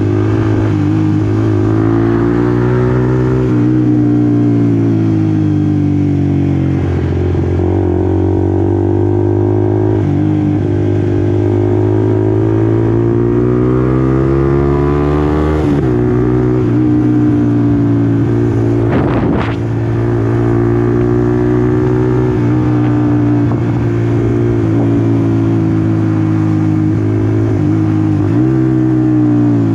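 Honda CBR150R V3's single-cylinder four-stroke engine running under way, its note rising and falling with the throttle and dipping sharply and recovering a few times, as at gear changes. A brief noise cuts across it about two-thirds of the way through.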